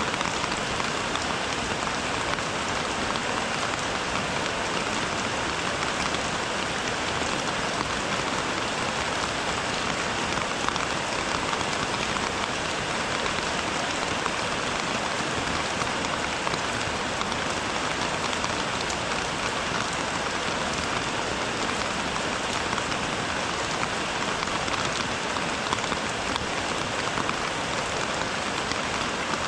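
Steady rain falling: an even, unbroken hiss of rain on surfaces.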